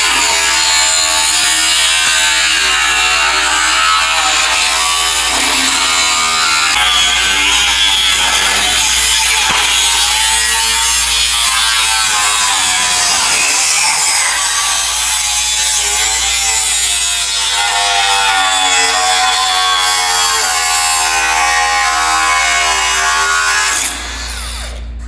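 Electric power cutting tool running under load as it cuts through the car's metal, its motor whine wavering in pitch as it bites, then stopping abruptly near the end.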